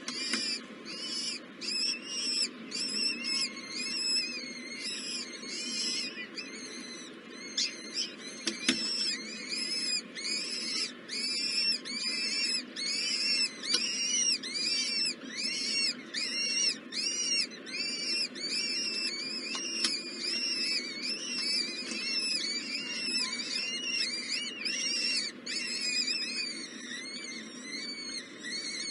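Baby birds in the nest chirping: a steady, rapid run of short high-pitched calls, about two or three a second, typical of nestling begging. A single sharp click sounds about nine seconds in.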